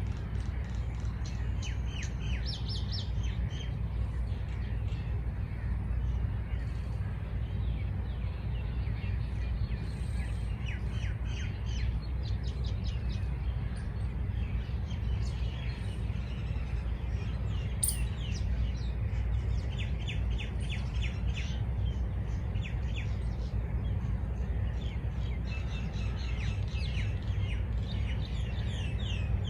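Small birds chirping in quick series of short, high notes, with a steady low rumble underneath and a single sharp click about two-thirds of the way through.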